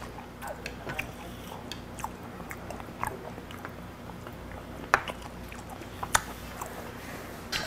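A person chewing raw beef liver, soft wet mouth clicks, with a couple of sharper clicks about five and six seconds in.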